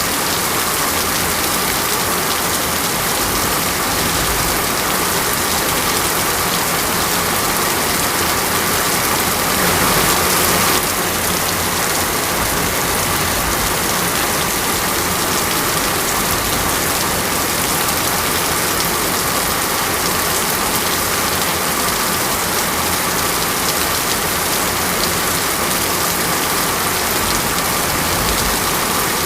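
Steady rain: a dense, even hiss of falling rain and drops hitting surfaces, swelling slightly for about a second around ten seconds in.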